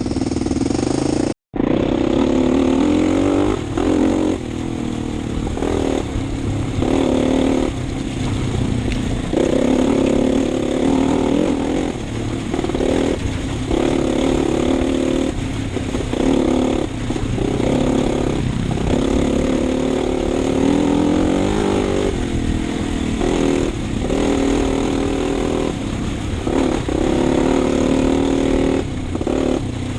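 Single-cylinder four-stroke enduro dirt bike engine under way, the throttle opening and closing over and over so the engine note keeps rising and dropping back. There is a brief total dropout about a second and a half in.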